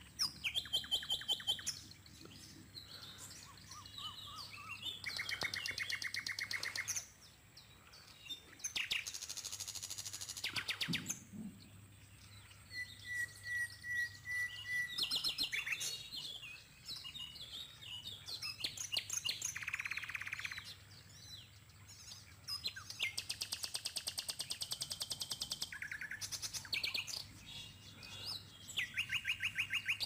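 Wild birds calling around a wetland pond: a mix of rapid trills and quick chirp series from several birds, with one steady whistled note near the middle.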